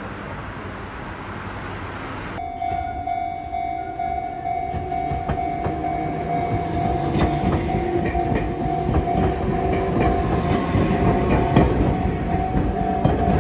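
A steady rumble, then from about two seconds in a train running on rails, with a steady whine and scattered clicks from the wheels, growing louder.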